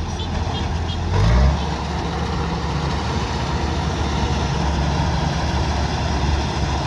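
Kubota DC-105X combine harvester's diesel engine running steadily, with a brief surge in loudness and pitch just over a second in.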